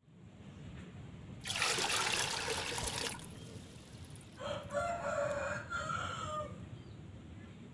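A brief rush of running water about a second and a half in, then a rooster crowing once, a single call about two seconds long.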